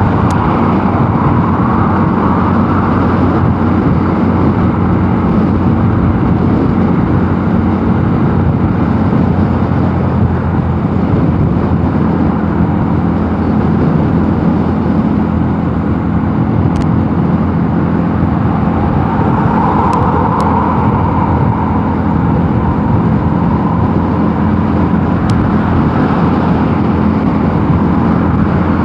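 Mondial Nevada 250 motorcycle engine running at a steady cruising speed, its note holding one pitch, with wind and road noise.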